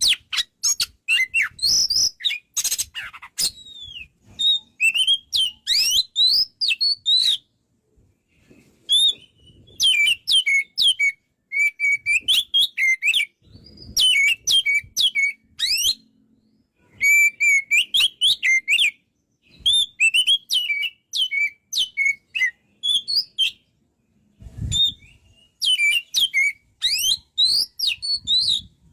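Oriental magpie-robin singing energetically: loud, varied whistled phrases of quick rising and falling notes, delivered in bursts with short pauses between them.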